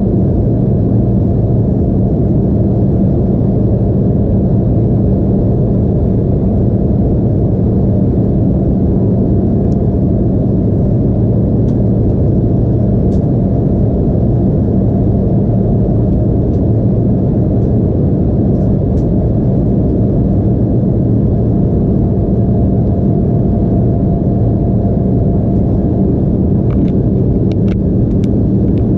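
Cabin noise inside an Embraer E175 airliner with its GE CF34-8E turbofans running: a steady, loud engine and airflow roar with a constant low hum. A few faint clicks come near the end.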